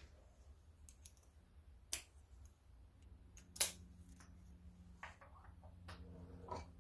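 Sharp clicks and light clatter of hand tools on metal as a small chainsaw's muffler is unbolted. The two loudest clicks come about two seconds in and a second and a half later, with fainter ticks after.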